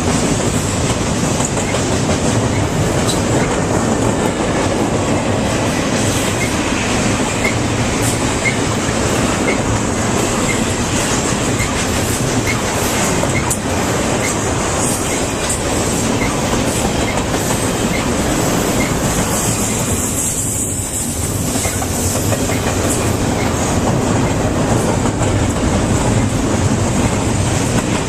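Train cars rolling past on the rails, a loud steady rumble of wheels on track.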